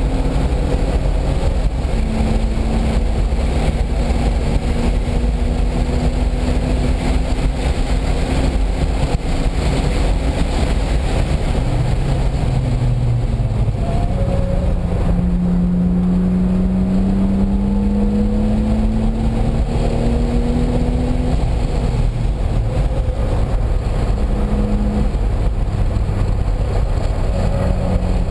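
Car engine under load on a race track, with loud wind and road noise. The engine note holds, steps, and climbs slowly for several seconds past the middle, then drops as the car shifts up.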